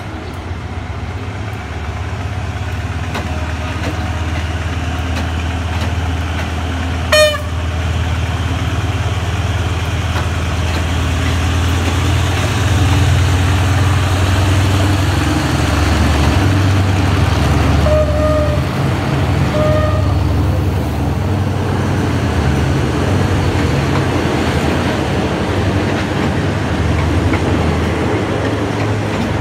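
Diesel-hauled passenger trains passing close by, with a steady low rumble from the locomotive engine and the rolling coaches. A short loud horn toot comes about seven seconds in, and two fainter short toots come around eighteen and twenty seconds.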